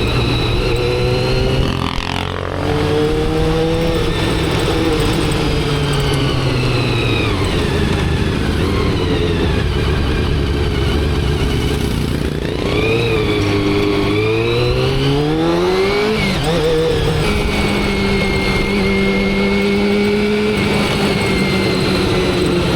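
Motorcycle engine under way, its pitch rising as it accelerates, with a quick drop about two seconds in and another at a gear change about three-quarters of the way through, then running at a steady cruise. Steady wind and road rush on the microphone underneath.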